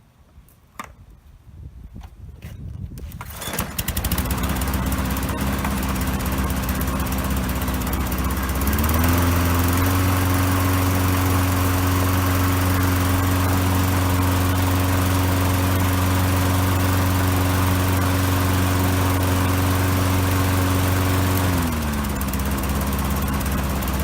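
Poulan Pro walk-behind lawn mower's small gasoline engine starting after a year and a half left out in the rain: a few clicks and knocks, then it catches about three seconds in and runs steadily. About nine seconds in it speeds up to a higher steady pitch, and near the end it settles back to a lower speed.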